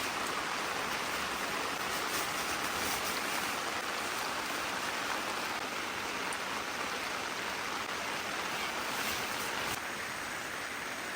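Steady rain falling, an even hiss that eases off slightly near the end.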